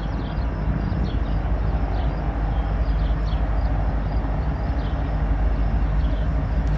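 Train running: a steady low rumble with the drone of a diesel locomotive engine.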